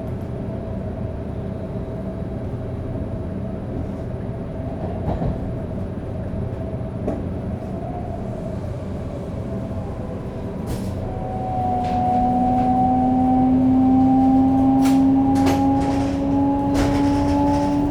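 Shinkansen 500 series running at speed, with the whine of its Toshiba GTO-VVVF inverter drive. About two-thirds through, a loud whining tone comes in and climbs slowly in pitch as the traction motors take power and the train gains speed, over steady rolling noise and a few light clicks.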